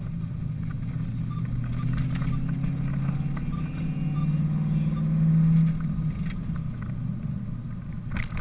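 Holden VY SS's 5.7-litre LS1 V8 heard from inside the cabin while cruising, a steady low engine drone that swells louder about five seconds in and eases back about a second later.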